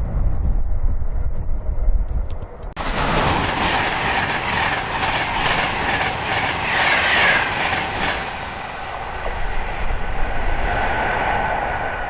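Wind rumbling on the microphone, then about three seconds in a passing train starts suddenly, its wheels clattering rhythmically over the rail joints at speed; the train sound stops abruptly at the very end.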